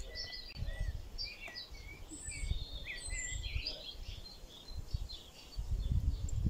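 Small songbirds chirping and singing in quick, short whistled notes, some sliding up or down in pitch. Under them runs an irregular low rumble that grows louder near the end.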